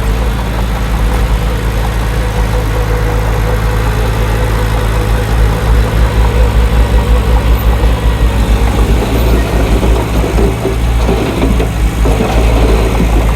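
Heavy diesel engine of earthmoving machinery running with a deep, steady rumble; from about five seconds in the loudness pulses rapidly.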